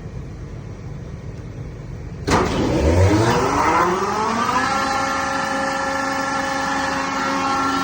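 Atlas Copco air compressor starting about two seconds in over a steady machinery-room hum: a sudden start, then its pitch rises for about two seconds as it comes up to speed, and it settles into a steady run.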